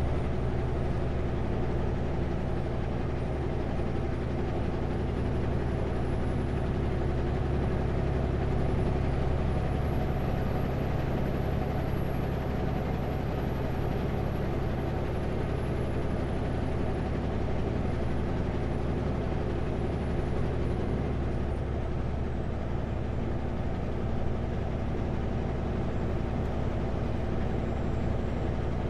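Kenworth W900L semi truck cruising on the highway: a steady diesel engine drone with road rumble. A faint high whine rises slightly about nine seconds in and falls back around twenty-one seconds.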